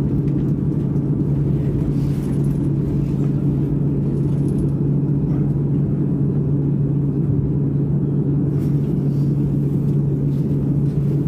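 Steady low rumble with a constant hum inside a Boeing airliner's cabin as the jet rolls along the runway after touchdown.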